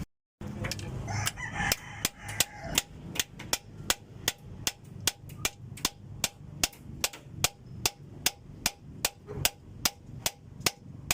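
Steady, even hammer blows on metal, about three a second, as a worn cylinder liner is driven out of an Isuzu 4BC2 diesel engine block.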